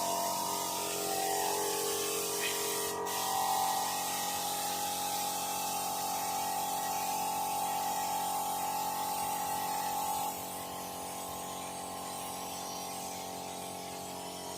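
Air spray gun hissing steadily as it sprays epoxy primer onto a repaired car body panel, with a brief break about three seconds in.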